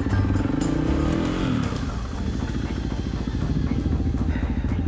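Dirt bike engine running. Its pitch drops as the revs fall away between about one and two seconds in, then it runs steadily at low revs.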